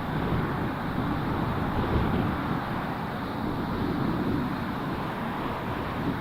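Strong wind buffeting the microphone: a steady rushing rumble with irregular gusts.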